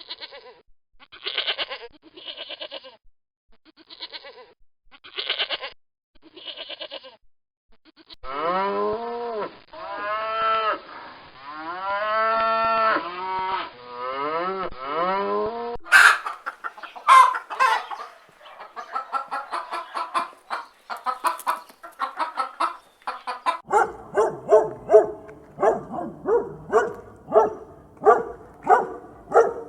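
A string of different farm animal calls, one kind after another: short spaced calls, then a series of long calls that rise and fall in pitch, then rapid chattering calls and a fast run of calls near the end.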